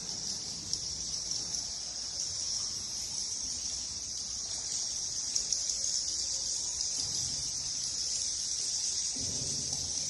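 Steady, high-pitched chattering of a colony of cave bats, a dense unbroken chirring.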